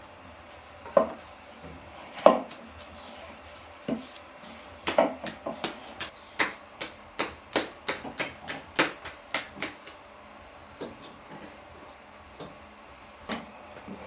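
Kitchen knife chopping on a wooden cutting board: a few single chops, then a steady run of about three chops a second for some five seconds, then a few more single chops.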